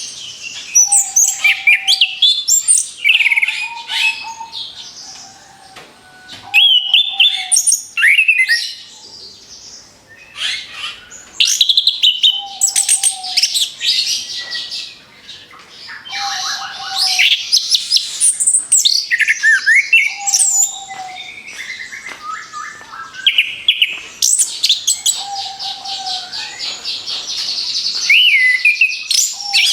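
Orange-headed thrush singing a fast, varied song: bursts of high whistled phrases, rapid strings of repeated notes and quick pitch glides follow one after another with barely a pause. A short lower note comes back every few seconds between the phrases.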